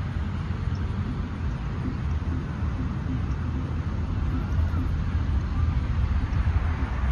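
Steady outdoor background noise with a strong, fluctuating low rumble.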